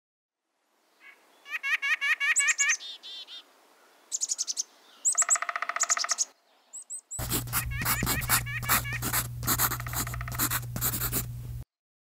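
Several songbirds calling and singing: first runs of repeated high notes and trills, then after a short pause a busier stretch of rapid chips and calls over a steady low hum, which all cuts off a little before the end.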